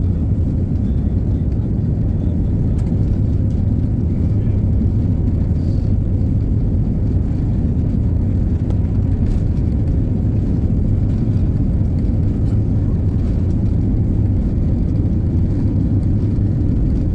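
Steady low-pitched drone of an airplane, unchanging throughout.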